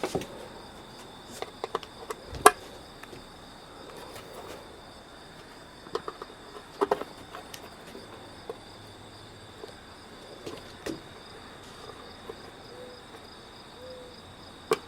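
Scattered sharp clicks and knocks from a metal ammunition spam can and its key opener being handled, the sharpest about two and a half seconds in, over a steady trill of crickets.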